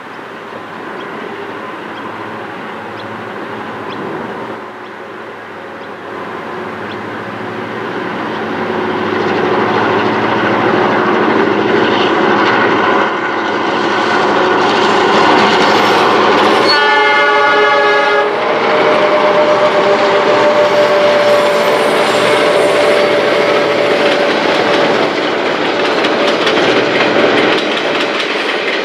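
Four Clyde EMD 49 class diesel-electric locomotives hauling empty grain hoppers, their engines growing louder as they approach and pass close by. About halfway through they give one horn blast of about a second and a half. After that the hoppers roll past with wheels clattering over the rail joints.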